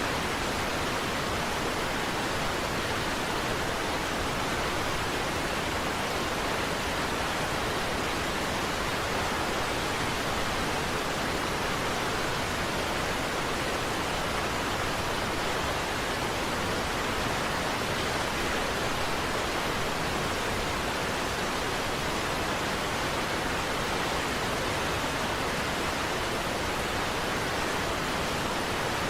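Niagara Falls: falling water making a steady, even rush with no breaks or changes.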